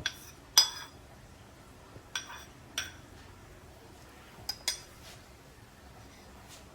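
Kitchen utensils clinking against cookware and dishes while ingredients go into a pot: about six sharp, ringing clinks spread across a few seconds, the loudest about half a second in.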